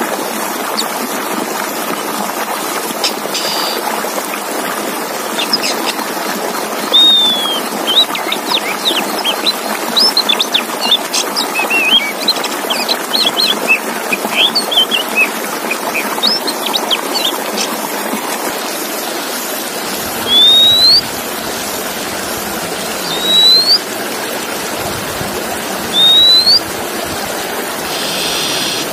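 Male Oriental magpie-robin (kacer) singing: a run of quick, varied chirps and trills, then a single short rising whistle repeated about every two to three seconds, over a steady hiss.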